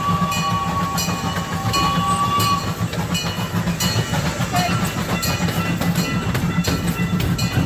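Small tourist ride train rolling along its track, heard from on board: a steady low rumble with frequent clicking from the wheels and rails. A thin steady high tone runs through the first two and a half seconds.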